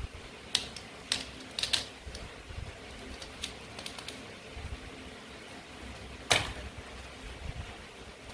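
Sharp plastic clicks and taps from toy food pieces and a toy knife being handled, at an irregular pace, with the loudest knock about six seconds in.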